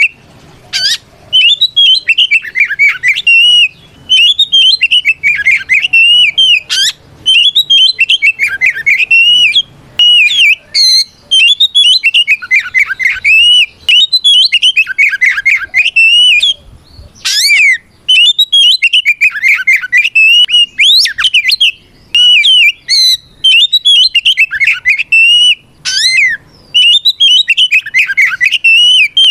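Oriental magpie-robin (kacer) singing loudly and almost without pause, a fast run of varied whistled phrases with sharp rising notes broken by brief gaps. This is the bird's full 'ngeplong' challenge song, a male calling out an opponent.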